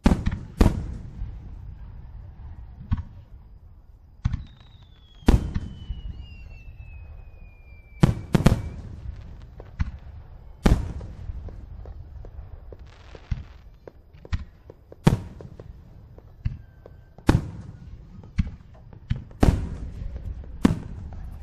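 Aerial firework shells bursting, about ten sharp booms at uneven intervals with a low rolling rumble between them. A thin whistle slowly falls in pitch from about four seconds in to eight and a half.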